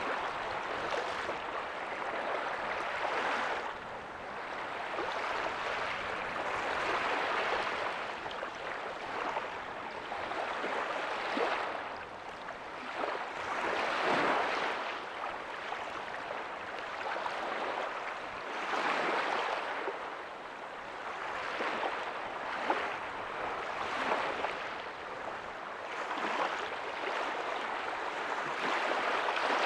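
Ocean waves breaking softly on a beach: a continuous rushing wash of surf that swells and ebbs every few seconds as each wave comes in and runs back.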